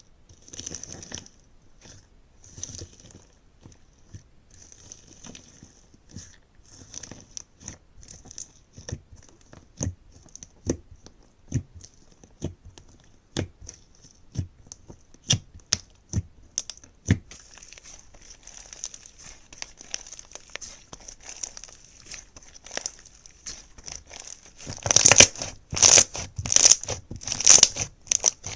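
Slime being squeezed and poked, giving a run of sharp sticky clicks and pops over a faint crackle. Near the end come louder crackling squishes, about one every 0.7 seconds.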